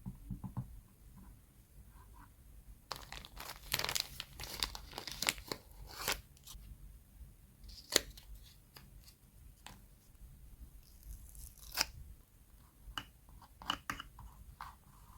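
Paper scrapbooking materials being handled: a dense run of paper rustling and tearing about three seconds in, then a few scattered sharp taps and clicks.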